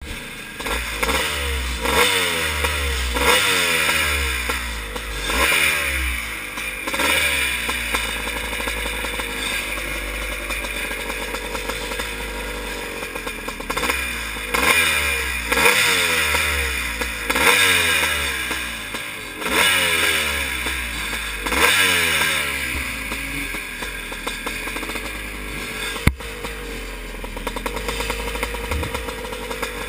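Vintage two-stroke motocross motorcycle engine, a Yamaha YZ465, revving hard in repeated bursts about every two seconds, the pitch falling after each burst. A low rumble runs underneath, and there is a single sharp click about 26 seconds in.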